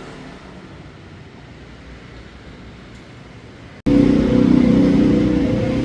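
Quiet, steady background noise, then an abrupt cut about four seconds in to a motor vehicle engine running loudly close by.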